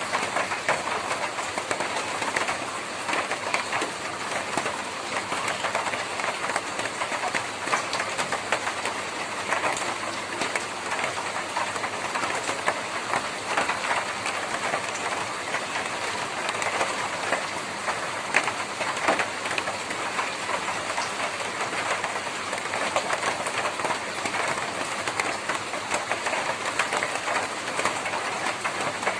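Rain falling steadily on a tin roof, a dense patter of many small drop hits on the metal sheeting.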